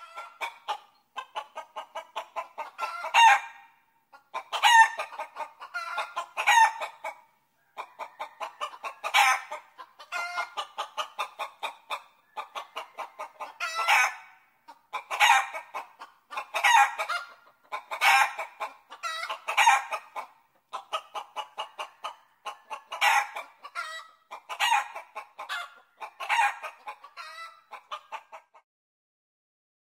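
Chickens clucking in rapid runs, with louder calls every second or two; the sound stops abruptly near the end.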